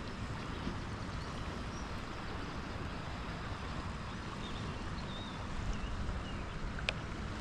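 Steady rushing outdoor noise of a river from a kayak, with a few faint high chirps scattered through it and a single sharp click near the end.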